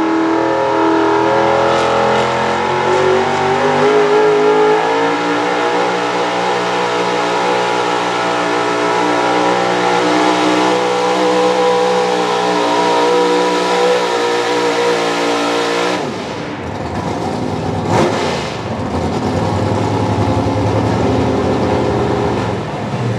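Pro Stock 4x4 pulling truck's engine running at high revs under load, its pitch climbing over the first few seconds and then holding steady. About sixteen seconds in it drops off suddenly to a lower, quieter running.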